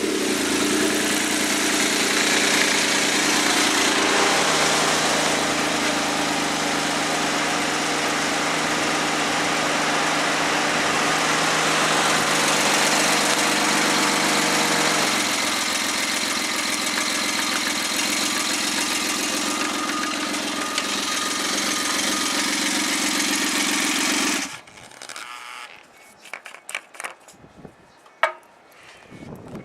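Freshly overhauled Suzuki K6A turbocharged three-cylinder engine idling steadily, its speed settling down a little twice. It is switched off and stops abruptly about 24 seconds in, and a few faint clicks and knocks follow.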